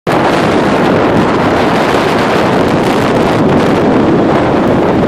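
Strong wind buffeting the microphone over the rush of storm-driven waves, a loud, steady roar of noise.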